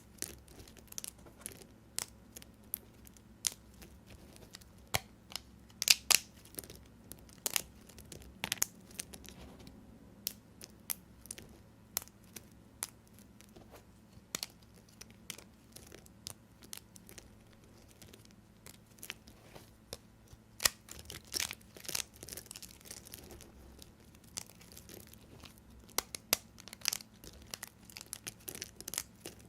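Knife cutting through bars of soap: an irregular run of sharp crunches and crackles, coming thicker in a few bursts.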